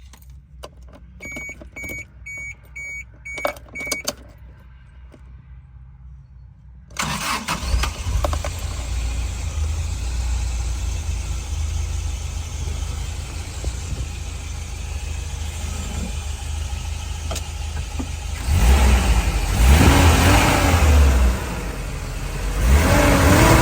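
A row of five short beeps with a few clicks, then the engine of a 1998 Toyota TownAce van starts about seven seconds in and idles steadily. Near the end it is revved twice, the pitch rising and falling each time.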